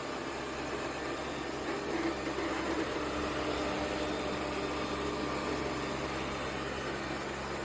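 Yeedi M12 PRO+ robot vacuum's base station running with a steady mechanical whir and hum that does not stop: a horrendous noise to its owner, and not normal while it only charges.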